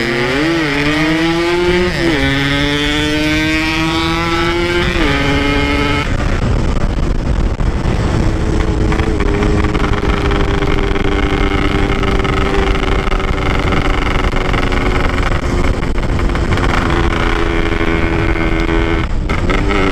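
Motorcycle engine under way, heard from on the bike: revs climb steadily over the first few seconds, drop sharply at a gear change about five seconds in, then hold a fairly even pitch, dipping briefly near the end.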